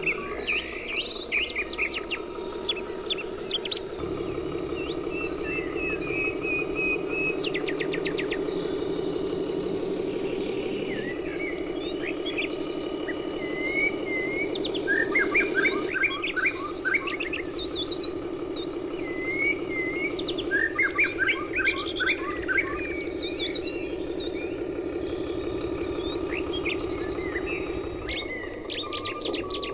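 Several small birds chirping and trilling in short, repeated calls, over a steady low hum.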